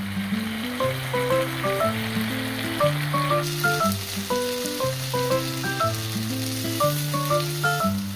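Pork bulgogi and bean sprouts sizzling in a grill pan. About three and a half seconds in, the hiss changes to fried rice sizzling as a spatula stirs it. Light background music with a stepping melody plays over it.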